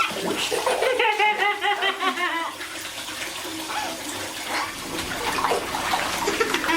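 Steady running water, with a baby squealing and babbling in high, wavering tones between about one and two and a half seconds in.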